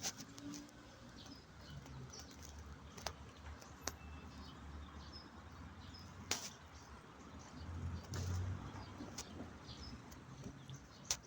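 Outdoor ambience: a steady low rumble of wind on the microphone, a few sharp clicks, and faint short bird chirps.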